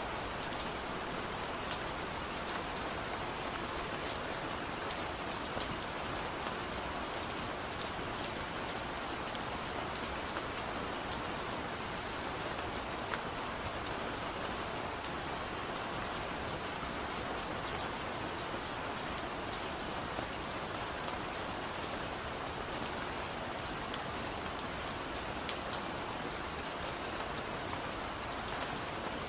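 Steady light rain falling on a surface, a constant even hiss sprinkled with small drop ticks.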